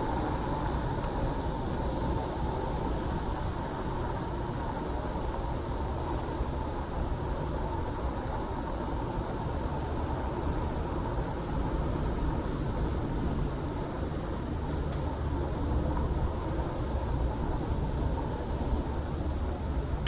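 Steady city road traffic noise with a low rumble, heard from a moving bicycle, with a few faint high chirps about half a second in and again around eleven to twelve seconds in.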